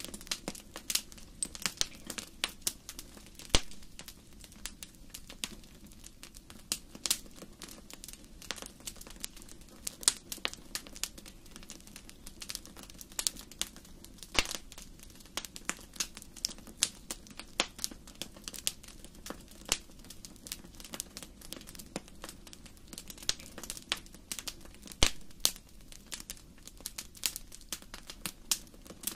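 Fire in a fireplace crackling: irregular sharp pops and snaps, several a second and of varying strength, over a steady low rumble from the burning fire.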